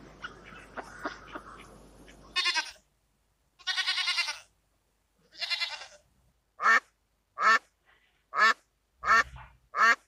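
Water splashing as a duck dives and thrashes, then goats bleating three times in wavering high voices, then a duck quacking five times in an even series of short, loud quacks.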